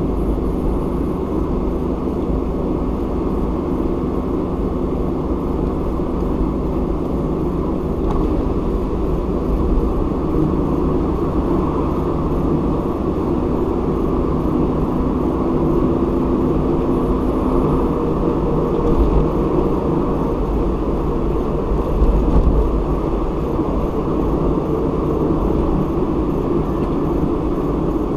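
A car driving on the highway: steady engine hum and tyre road noise, muffled, with little sound above the low and middle range and small swells now and then.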